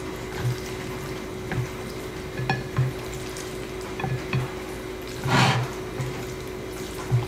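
An eating utensil knocking and scraping against a bowl while sticky noodles are mixed through black bean sauce, in short irregular clicks and taps with one longer, louder scrape about five seconds in. Steady rain hisses behind it through an open window.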